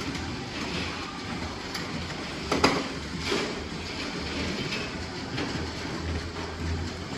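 Toy trains running on a layout track, a steady rattling run with a pulsing low motor hum, and one sharp click about two and a half seconds in.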